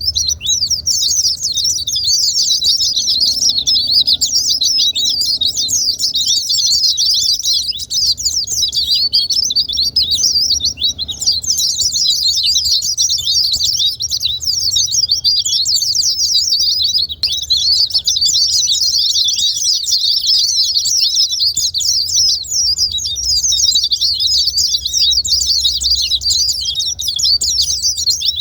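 White-eyes (pleci) singing: a dense, unbroken stream of rapid high-pitched twittering and trills.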